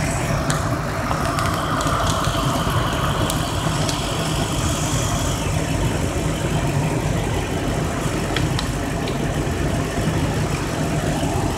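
A 2001 Mercury Mountaineer's 5.0-litre V8 idling steadily, with a few faint clicks over the hum.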